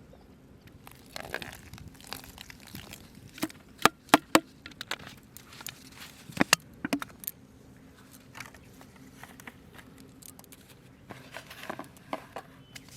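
Crinkling and handling noise broken by a run of sharp clicks and knocks: three loud ones in quick succession about four seconds in and two more a couple of seconds later, with lighter crackles near the end.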